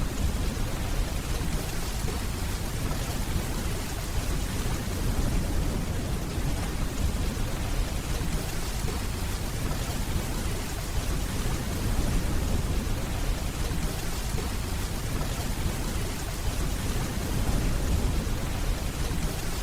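Steady rainfall, an even hiss, with low, rolling distant thunder rumbling underneath and swelling gently now and then.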